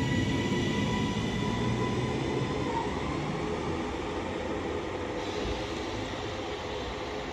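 Three-car Northern Class 331 electric multiple unit pulling out of the platform, its running rumble with a steady whine that stops about three seconds in. The sound slowly fades as the train moves off.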